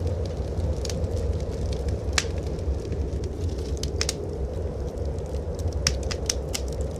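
Fireplace wood fire crackling, with scattered sharp pops that come more often near the end, over a steady low rumble.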